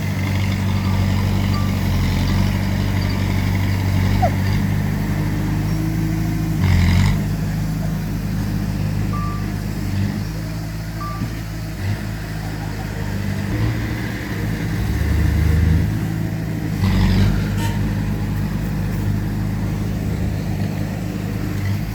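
Diesel engines of heavy earthmoving machinery running steadily and changing pitch as they work. Two short noisy bursts come about seven and seventeen seconds in.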